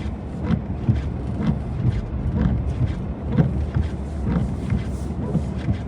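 Mahindra Thar diesel 4x4 driving uphill on a snow-covered road: a steady low engine and road rumble, with frequent short knocks and thumps from the vehicle jolting over the snow.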